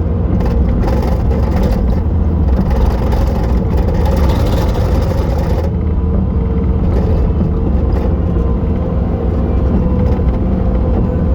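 Bobcat T870 track loader's diesel engine running steadily and loud. A harsher noise rides over it for the first half and drops away about halfway through.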